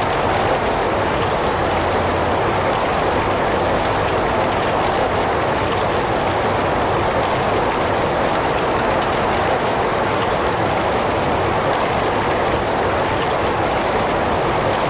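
Heavy rain falling steadily, an even, unbroken hiss with no thunder or distinct drops standing out.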